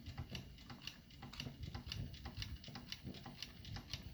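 Model steam engine's boiler heating: irregular light ticks and pops, a few a second, over a low rumble. The boiler is not yet hot enough to turn the engine.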